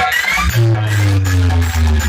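Loud DJ dance music played through a large box sound system with six bass and six top cabinets on CA20 amplifiers. A heavy, sustained bass note comes in about half a second in, with a falling tone above it.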